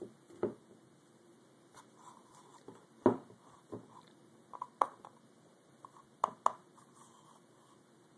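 Handling noises from the engine mounts: a handful of short knocks and clunks as the parts are moved and set down on a hard surface, the loudest about three seconds in and a quick pair a little past six seconds.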